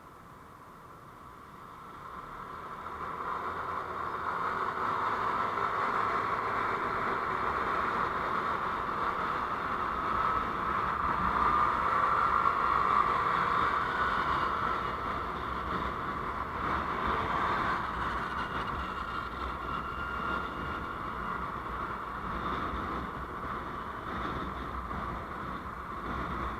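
Noise of a vehicle on the move, heard from on board: a steady rush of road and wind noise that builds up about two seconds in, is strongest near the middle, then eases off a little.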